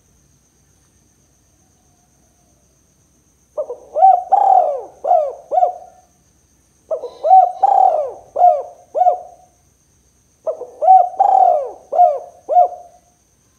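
Spotted dove cooing: three phrases of several short coos each, the first starting about three and a half seconds in, with pauses between them.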